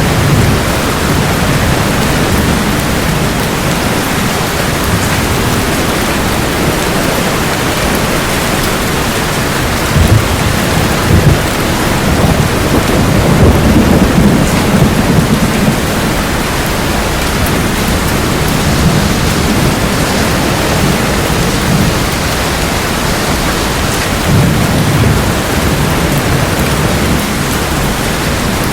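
Steady heavy rain with thunder: two sharp cracks about ten seconds in, followed by a long low rumble, and a smaller rumble near the end.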